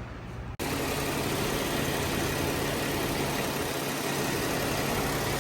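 Jeep Wrangler engine idling steadily, cutting in abruptly about half a second in.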